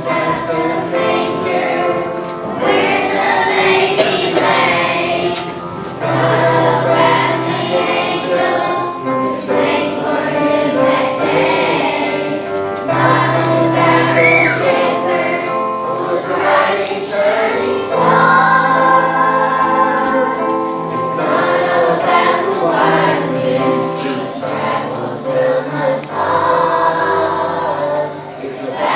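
A choir of young children singing a song together over musical accompaniment with steady low notes.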